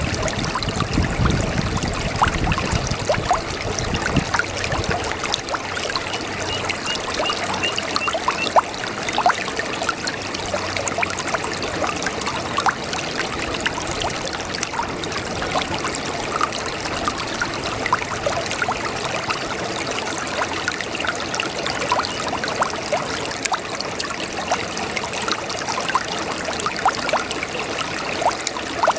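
A babbling brook: water running steadily over stones, with many small irregular splashes and trickles.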